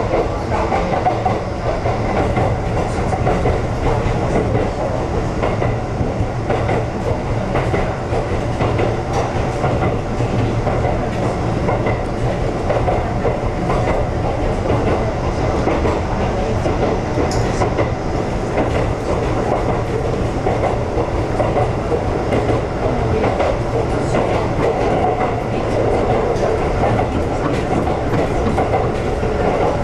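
Ex-Tokyu 7000 series two-car electric train running steadily along single track, heard from inside the front cab: continuous wheel-on-rail running noise.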